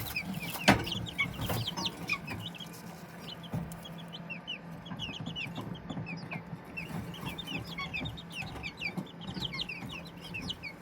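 Many young chicks peeping together, a constant overlapping stream of short, high peeps, over a steady low hum. There is a single sharp knock about a second in.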